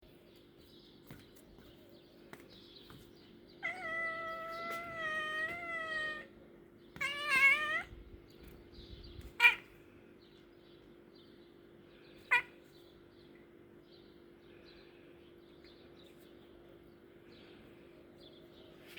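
Domestic cat meowing: one long drawn-out meow, then a shorter one that rises in pitch. Two sharp clicks follow a few seconds later, over a steady low hum.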